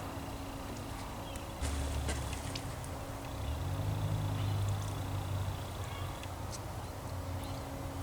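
Scattered clicks and knocks as a channel catfish is handled and cut on a wooden cleaning board, over a low steady hum. The low end gets louder about one and a half seconds in.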